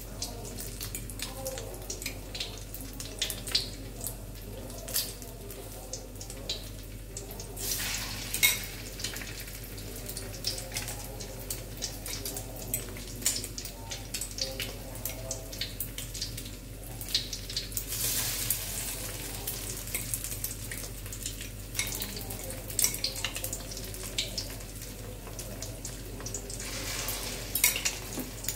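Egg-dipped perkedel fritters frying in a little oil in a wok: steady sizzling with frequent crackles and pops, swelling louder a few times.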